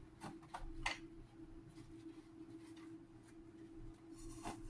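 A few faint clicks and light knocks of small gears being handled and pushed into place in a scooter gearbox case, over a steady faint hum.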